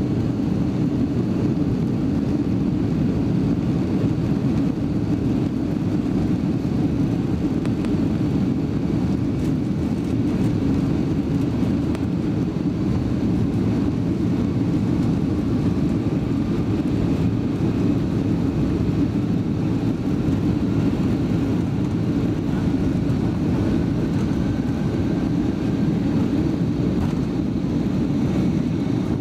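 Boeing 757-200 cabin noise heard from a window seat: a steady, deep rumble of jet engines and airflow, with a faint rising tone late on.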